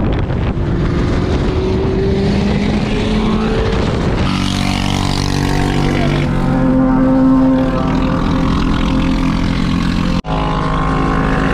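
Motor engines running and revving on the move, the pitch rising over the first few seconds, then several engines sounding together. The sound cuts out for a moment about ten seconds in.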